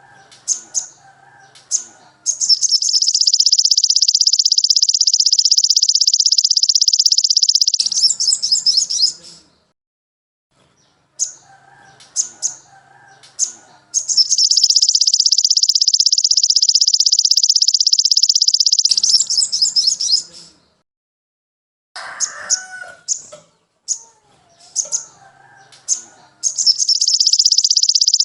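Bird-song tutor recording for training a sogon (sogok ontong): a few sharp high chirps, then a long rapid high-pitched trill lasting about five to six seconds, repeated as a loop about every twelve seconds, with softer lower warbling between the trills.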